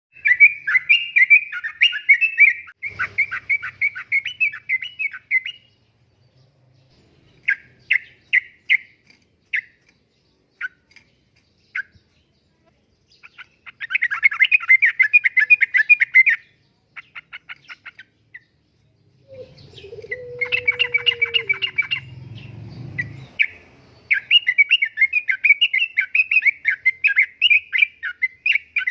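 Sooty-headed bulbul singing in repeated bursts of fast, bubbly, warbling chatter, with short pauses between phrases. A low rumble and a brief falling tone come underneath about two-thirds of the way through.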